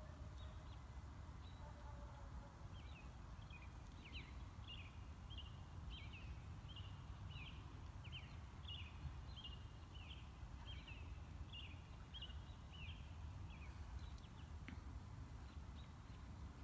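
Faint bird song: a string of short, high chirps repeated about twice a second, starting a few seconds in and stopping about three-quarters of the way through, over a steady low outdoor rumble.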